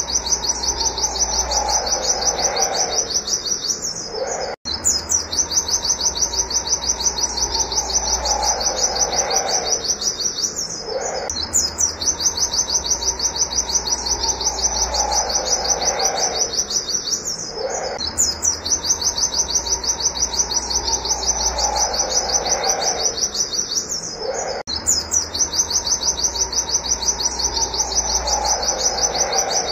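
White-eye (pleci) chirping a fast, even run of high 'wit wit' notes, broken by short gaps about every six or seven seconds. Under each run sounds a lower call that falls in pitch.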